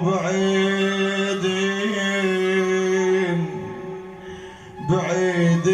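A male radood's voice singing a Shia mourning lament (latmiya): one long, held note for about three seconds, fading, then the next sung phrase starting near the end.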